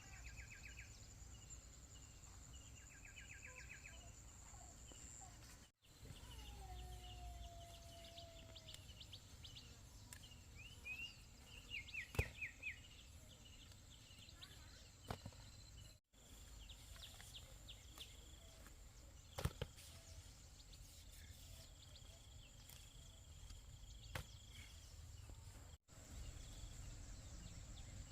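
Faint outdoor ambience: scattered bird chirps and short rapid trills, with a steady high insect drone and a few light clicks.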